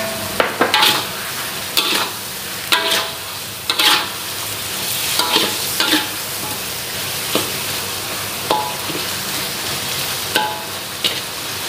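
Tofu and chicken pieces frying in a dark soy sauce in a wok, with a steady sizzle. A spatula stirs and scrapes against the wok in short, irregular strokes, about one a second.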